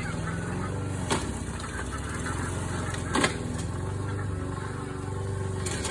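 An engine running steadily with a low, even hum, from a machine being used to chop up vegetation. Two brief knocks come about a second and about three seconds in.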